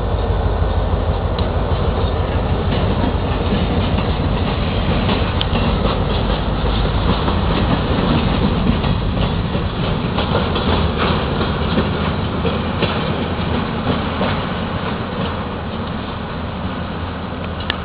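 Freight train rolling by: covered hopper cars with wheels clicking over the rail joints, behind an EMD GP40 diesel locomotive pulling away. The rumble slowly fades as the train moves off.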